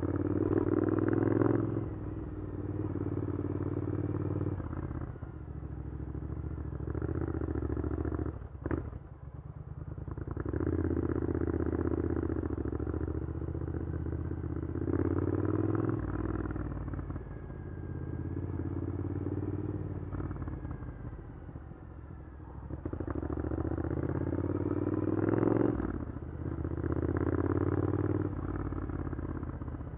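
Triumph Scrambler 900's parallel-twin engine running through an Arrow exhaust, pulling in repeated surges with the revs rising and dropping between them. There is a sharp click about nine seconds in.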